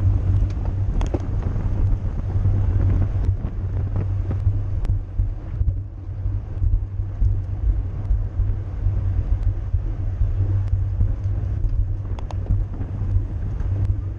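Wind buffeting the microphone of a camera riding on a racing bicycle in motion: a steady low rumble with road noise and scattered light clicks and ticks.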